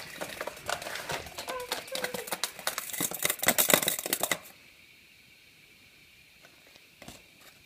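A cicada fluttering its wings in a fast, irregular clatter of clicks and rattles that stops suddenly about four and a half seconds in.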